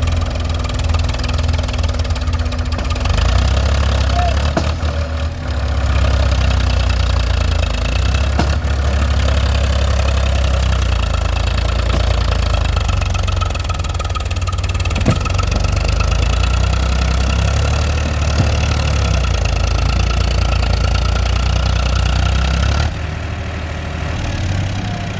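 Diesel tractor engines running steadily with a heavy low rumble, easing off about 23 seconds in.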